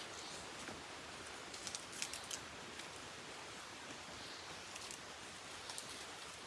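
Faint steady background hiss. A few small clicks and rustles come about two seconds in and again near the end.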